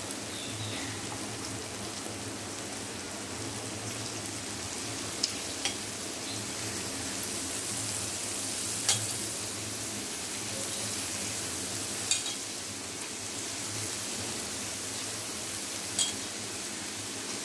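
Steady sizzle of moong dal and green peas frying in a hot metal kadhai as chopped spring onion greens go in, with five sharp clicks spaced through it from the spatula against the pan.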